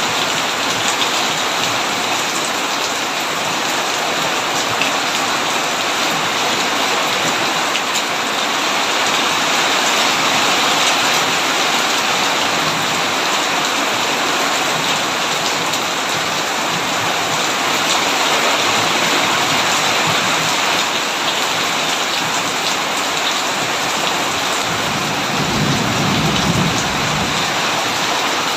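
Heavy rain falling steadily on a tin roof, a dense even patter, with a low rumble of thunder near the end.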